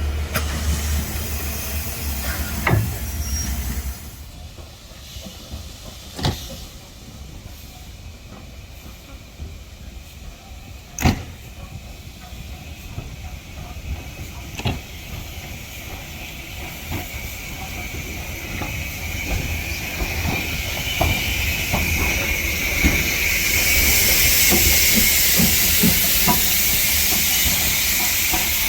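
Steam locomotive: a low rumble that drops away about four seconds in, a few sharp clanks, then a steam hiss that swells and grows loud near the end.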